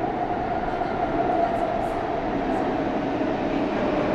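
Canada Line SkyTrain train moving on the track: a steady rumble with a whine that slowly falls in pitch, growing louder toward the end.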